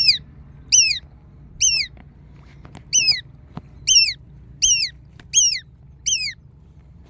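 A bird's sharp, high call, repeated about eight times at under a second apart, each note sliding down in pitch.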